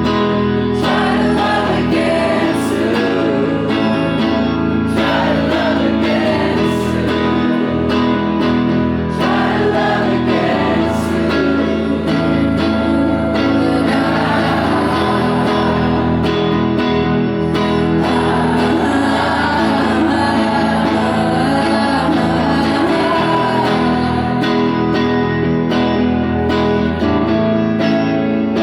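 Live solo performance of a song: a woman singing over her own strummed guitar, the melody line continuing throughout.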